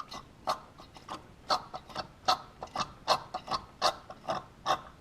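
Intake camshaft of a 4.2 FSI V8, with the engine off, being rocked by hand in its cam phaser and clacking against the free play, a series of sharp metallic clacks about two or three a second. The phaser's locking pin is not holding the camshaft in its zero position, which is the cause of the engine's knock for a few seconds after start-up.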